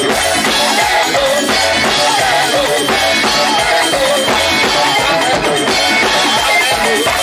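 Live band music with a drum kit playing a busy beat on bass drum, snare and rims, under a wavering melody line.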